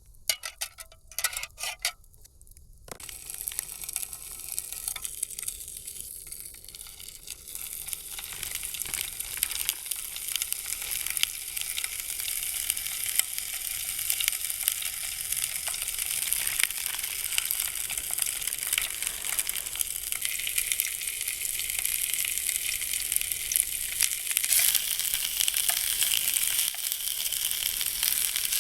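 Food sizzling in a pan. A few short clicks and knocks come first, then the sizzle sets in about three seconds in and grows steadily louder.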